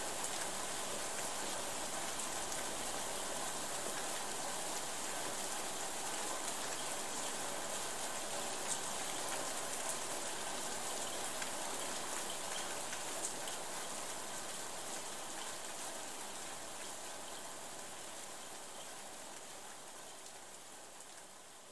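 Steady rain falling, with a fine hiss and scattered drop ticks, fading out gradually over the last several seconds.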